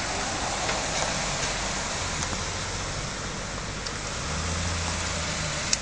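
A motor vehicle engine running, its low rumble swelling about four seconds in, over a steady hiss of outdoor noise.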